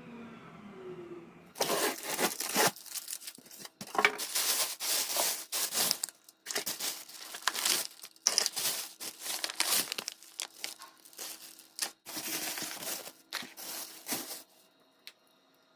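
Crinkly plastic packaging being handled and torn open: a long run of sharp crackling rustles that stops near the end.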